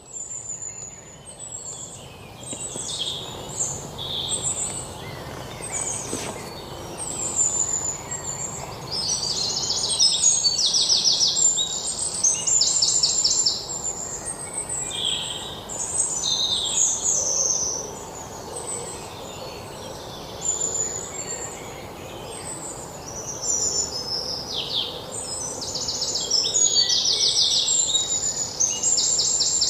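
Songbirds singing: many short chirps and slurred whistles with fast repeated-note trills, over a faint steady background hiss. The loudest trills come about a third of the way in and again near the end.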